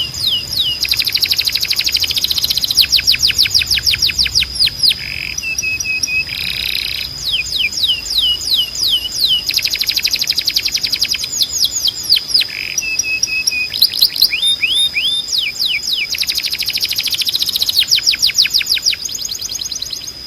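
Belgian canary singing: rapid rolls of repeated down-slurred whistled notes, broken twice by short lower held notes, over a steady high-pitched tone.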